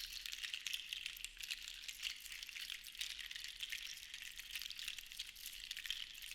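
Seashells rattling and clicking against each other in a dense, continuous patter that swells and eases unevenly.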